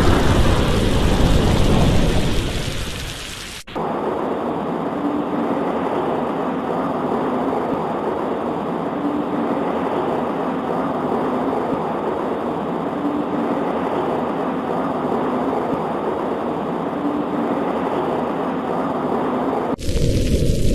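A roll of thunder fading away over rain during the first few seconds, then an abrupt change to steady, duller rain noise. About a second before the end it cuts back to louder, fuller rain and rumble.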